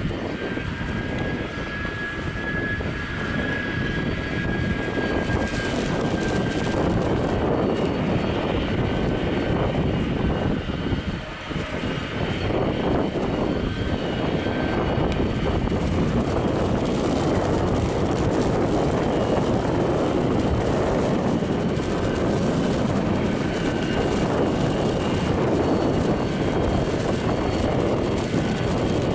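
Boeing 767-330ER's twin jet engines running, a steady loud rush with a thin high whine that fades in and out.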